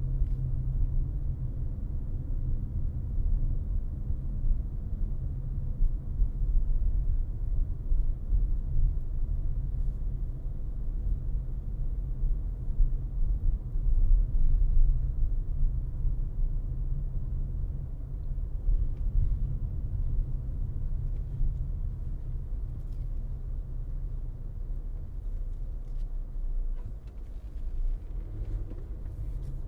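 Steady low rumble of a car driving along: road and engine noise, with a few faint light ticks in the second half.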